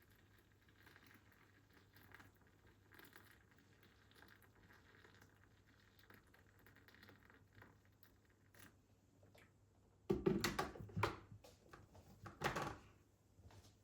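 Faint taps and rustles of handling things in a kitchen, then about ten seconds in a few loud knocks and clatters.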